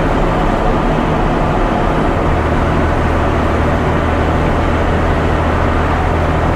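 Loaded ready-mix concrete truck's diesel engine and road noise heard from inside the cab while driving, steady and loud. A deeper low engine hum sets in about two seconds in.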